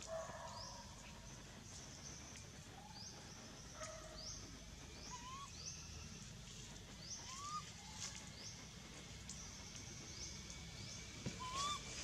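Faint outdoor ambience. A bird repeats a short, high rising chirp about twice a second, and a few lower rising whistled calls come several seconds apart.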